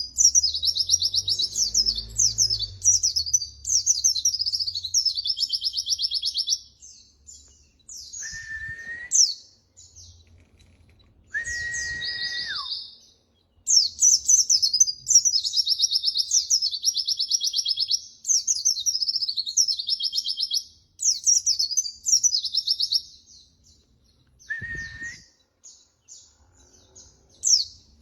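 White-eye (pleci) singing: long, rapid, high warbling phrases with short pauses between them, with a few short steady whistled notes in between.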